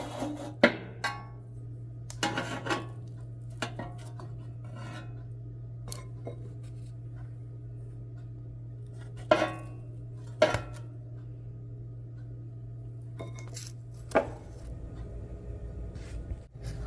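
Irregular clatter of hard objects being handled, like dishes or pots knocking together: about eight sharp clanks, some ringing briefly, over a steady low hum.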